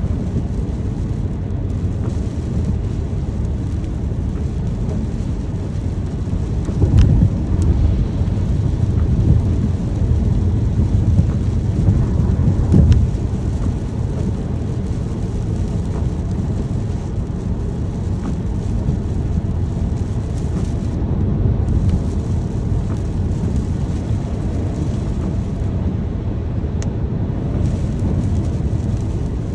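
Steady rain with a deep, low rumble under it, swelling louder about 7 and again about 13 seconds in.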